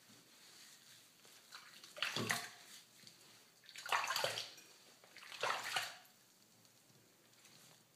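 Water splashing in a bathtub as a cat is wetted down: three separate splashes of about half a second each, the last a little after the middle.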